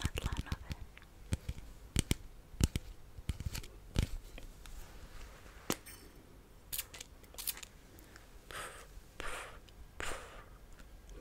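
Close-miked ASMR trigger sounds: a quick run of sharp clicks and taps, then, about halfway through, several soft swishing strokes about a second apart.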